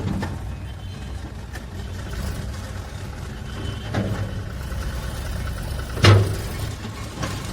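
Heavy-machine diesel engine running steadily at a low drone. A lighter knock comes about four seconds in, and a loud sharp knock about six seconds in.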